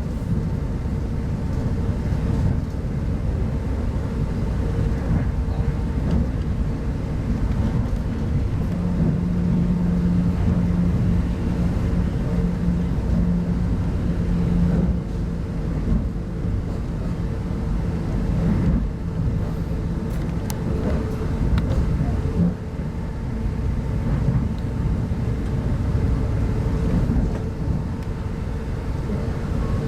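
Interior running noise of a 25T passenger coach on the move: a steady deep rumble with a faint constant hum, and a stronger low drone for several seconds near the middle.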